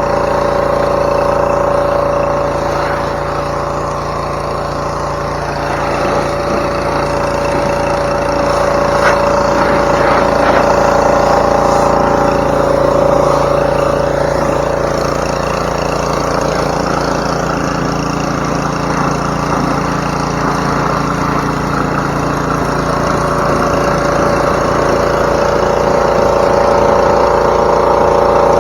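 Gas pressure washer's small engine running steadily, with the hiss of the water spray over it.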